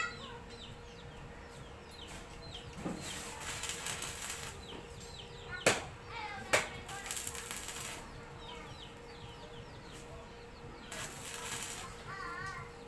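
Short bursts of crackling hiss from a small electric stick-welding arc struck three times, each lasting one to one and a half seconds, with two sharp knocks between the first and second bursts. Birds chirp faintly throughout.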